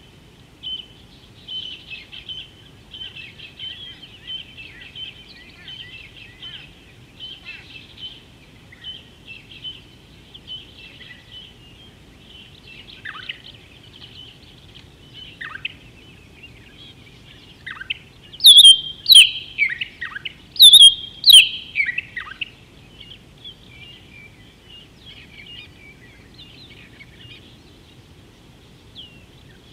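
Wild birds chirping continuously, with a run of much louder, sharp calls from a nearby bird between about 18 and 22 seconds in, several of its notes sweeping downward. A faint steady outdoor background hiss lies underneath.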